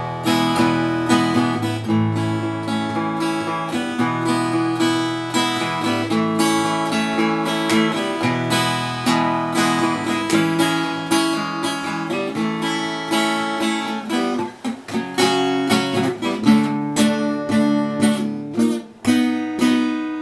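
Epiphone Hummingbird acoustic guitar strummed in steady chords, an instrumental break with no singing.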